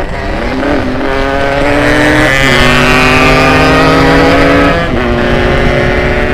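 Ported Yamaha RX King's single-cylinder two-stroke engine running hard under acceleration: it revs up, then the pitch drops and climbs again twice, at about two and a half and five seconds in, as it shifts up through the gears.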